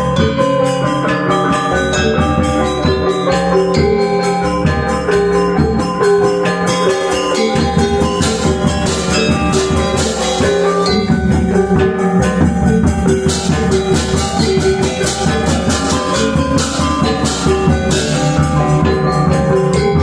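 Balinese gamelan gong ensemble playing an instrumental piece (tabuh): bronze metallophones and gongs ringing in dense, fast strokes over a sustained low gong tone, with drum and cymbal strokes.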